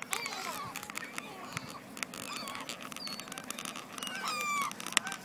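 A flock of waterfowl calling: many short, overlapping honks and squawks. A sharp click comes near the end.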